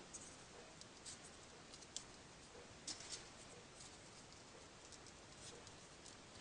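Faint, irregular paper rustles and light ticks as folded triangular paper units for 3D origami are handled and pushed into place on the model.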